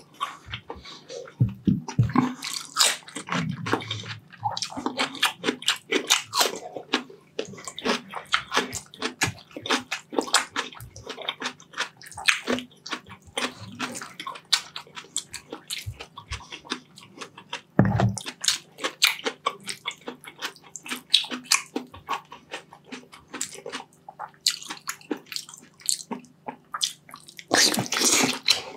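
Wet, sticky chewing and lip-smacking of a person eating saucy braised beef short ribs and rice with his hands: a dense, irregular run of smacks and clicks, with a louder knock about two-thirds of the way through.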